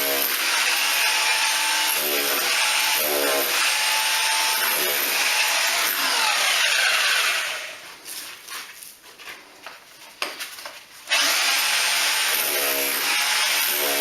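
A power tool cutting or working through material, with a rasping sound that repeats about every one and a half seconds. It winds down about seven seconds in, pauses with a few clicks, and starts again abruptly about eleven seconds in.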